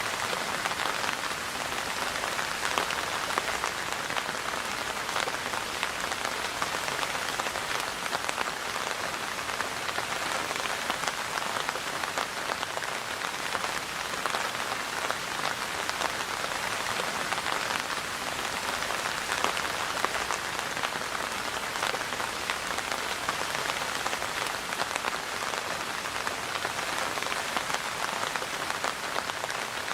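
Steady rain falling and pattering on a hard surface, an even hiss of many small drops.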